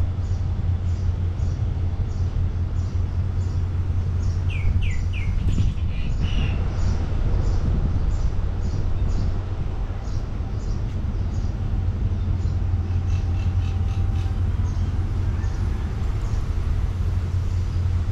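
Steady low rumble with birds chirping over it: a quick run of three falling chirps about four to five seconds in, and short high chirps repeating about twice a second.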